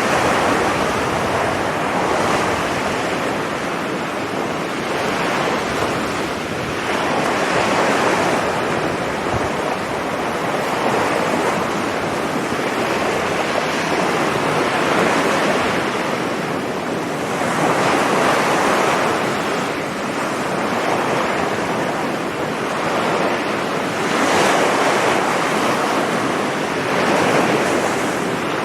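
Sea waves breaking and washing up a beach, the surf swelling and easing every few seconds, with some wind on the microphone.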